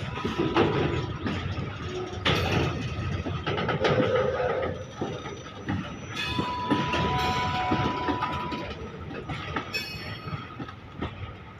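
Freight train rolling past, its wheels clattering over the rail joints, with a steady high tone lasting a couple of seconds about halfway through.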